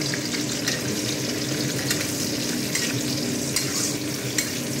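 Cashews and raisins frying in ghee and oil in a metal kadai, with a steady sizzle. A spatula stirs them, scraping and clicking against the pan a few times.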